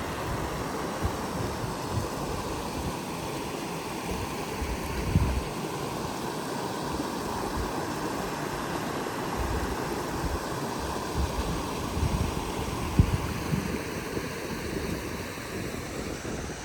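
Creek water running, a steady rushing, with a few brief low thumps, the loudest about five seconds in and near the end.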